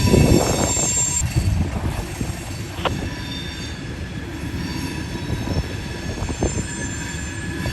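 Freight train rolling past, its wheels squealing in several high, steady tones over a low rumble, with wind buffeting the microphone.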